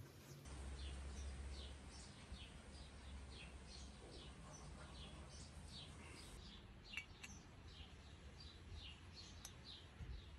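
A small bird chirping over and over, short falling chirps about two a second, faint. Two light metallic clicks near the end.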